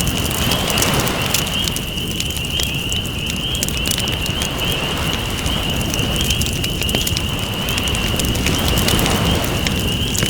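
Campfire crackling and popping over waves washing in and out, the surf swelling about every four seconds. A steady high trill runs underneath.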